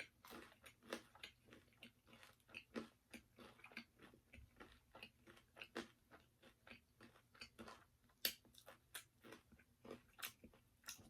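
Close-up chewing and biting of crispy spicy fried chicken: many irregular crunches of the breading, with a couple of louder crunches near the end.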